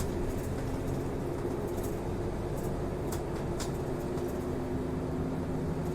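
Route bus under way, heard from inside the passenger cabin: a steady engine and road drone with a few light clicks.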